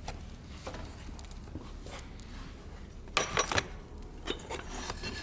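Brief clatter of small objects being handled, a quick run of clicks and rattles about three seconds in, over a low steady hum.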